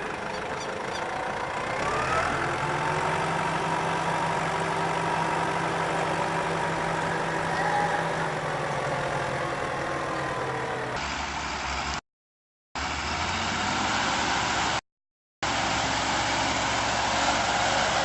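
Heavy vehicle engines running. One revs up about two seconds in and holds a steady higher pitch. The sound then cuts abruptly to other engine recordings, with two brief silent breaks between them.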